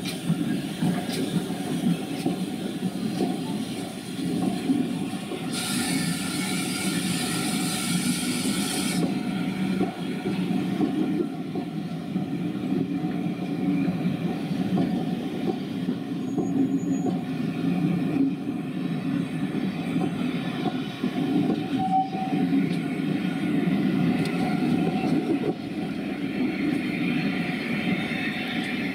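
A train of passenger coaches rolling past behind a steam locomotive, a steady rumble of wheels on rail. About six seconds in comes a burst of high hiss lasting some three seconds.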